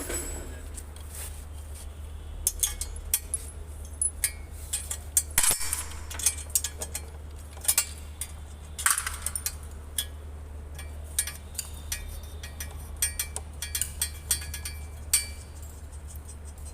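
Metal hand tools clinking against engine parts: irregular sharp clicks and clanks as a 12 mm spanner or socket works the bolts of the engine's exhaust manifold, over a steady low hum.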